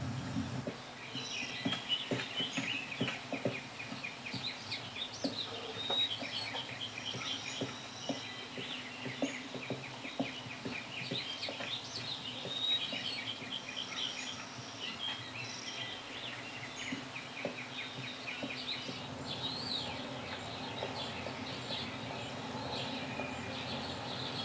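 Several small songbirds chirping and trilling as park ambience, with scattered soft ticks beneath them, most in the first half.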